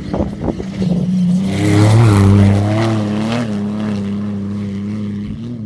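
Off-road race vehicle's engine passing at speed. It is loudest about two seconds in, its note wavering slightly, then it fades steadily as it goes away.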